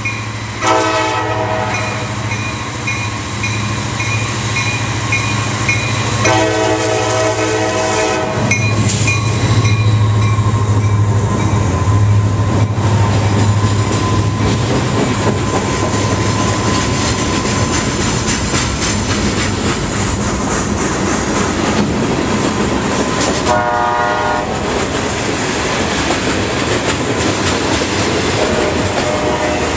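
Diesel freight locomotive sounding its horn in three blasts (the first two long, about half a second and six seconds in, a shorter one past twenty seconds), its engine rumble swelling as it passes close, then the steady clatter of freight cars rolling over the rails. A grade-crossing bell rings through the first several seconds.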